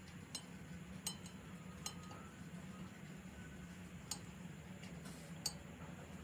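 Faint clinks of dishes and utensils being handled, about five light sharp taps spaced irregularly, over a low steady hum.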